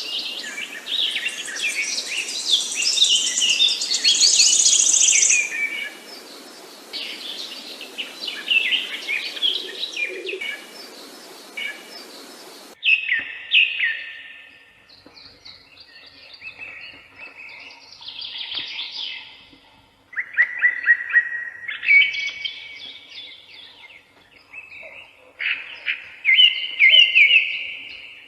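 Songbirds chirping and singing. For about the first half, several birds sing at once over a steady hiss; then the sound changes abruptly to a cleaner recording of birds singing separate short phrases and trills.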